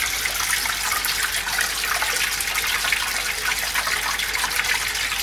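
Homemade terrarium waterfall running, driven by a 3000 litre-per-hour pump: a steady splashing rush of falling water.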